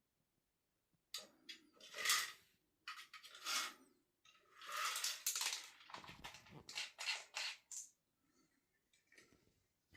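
Cat batting and spinning a hard toy, a run of loud clattering and rattling from about a second in until near the end.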